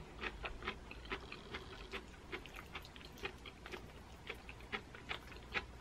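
Faint close-mouthed chewing of pesto-coated zucchini noodles: soft, irregular wet clicks from the mouth, two or three a second.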